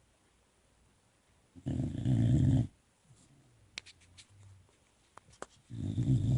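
Boxer puppy snoring in its sleep: two loud snores about four seconds apart, each lasting about a second, with a few faint clicks in the quiet between them.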